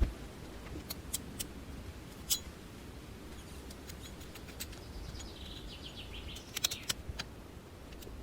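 A small bird calls with a quick run of high chirping notes about five seconds in, over a low steady outdoor rumble. Scattered sharp clicks or taps sound a few times, in a small cluster near the end.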